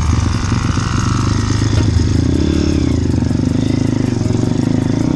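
Small motorbike engine running steadily, its pitch rising and then falling back in one brief rev about halfway through.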